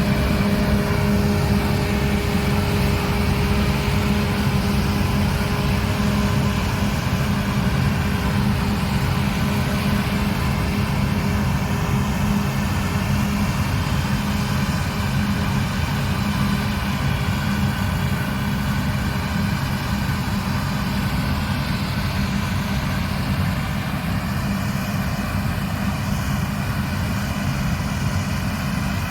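Combine harvester running steadily under load: a heavy diesel engine drone with the even whirr of the threshing machinery, holding a constant pitch.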